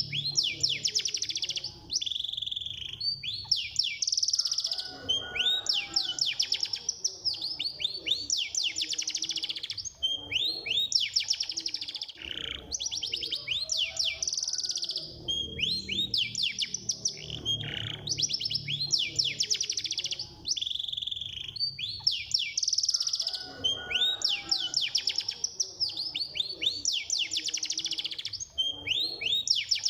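Domestic canary singing without pause: fast trills and quick sweeping notes in phrases of a second or two, one after another. This is the fast, tightly packed 'speed' style of canary song.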